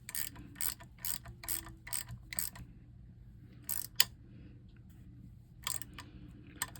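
Ratchet wrench clicking, about four clicks a second for two and a half seconds as a bolt is run down, then a few scattered clicks and one sharp knock about four seconds in.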